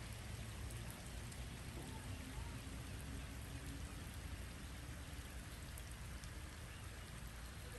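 Steady hiss of light rain falling on wet ground and road.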